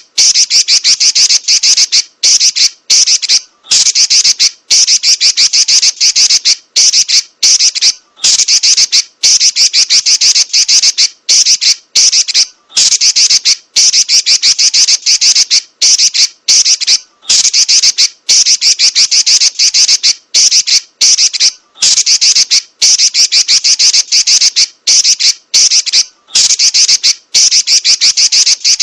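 Female Pekin robin (red-billed leiothrix) giving loud, rapid high-pitched chattering calls that run into rolling trills, in runs of about a second or so separated by brief pauses.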